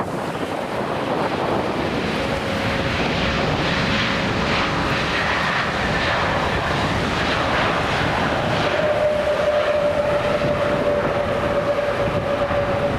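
Jet airliner's engines: a loud steady rush of jet noise with a steady whine that steps up slightly in pitch a little past halfway.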